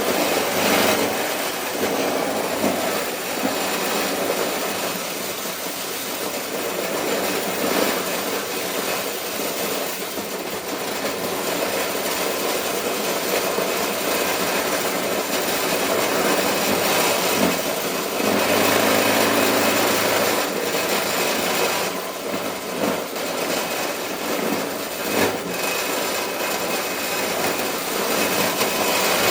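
Motorized corn sheller running, a steady dense clatter with no pauses.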